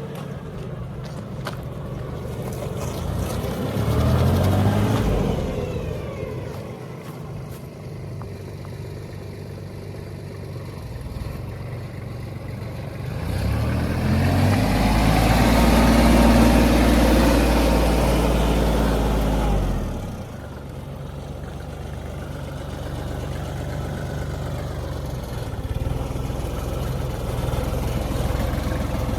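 Kubota KL340H tractor's diesel engine running. The engine speed rises and falls briefly about four seconds in, then climbs again and is held high for several seconds before dropping back to idle.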